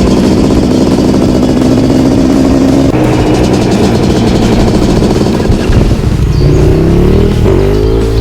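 Dirt bike engine sound running at high revs, then revving up with its pitch climbing over the last two seconds.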